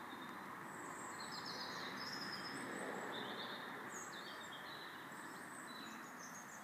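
Outdoor ambience: a steady low hiss with small birds chirping repeatedly.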